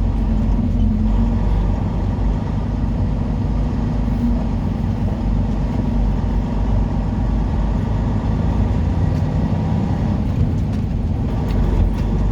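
Semi truck's diesel engine running steadily, heard from inside the cab with road noise under it.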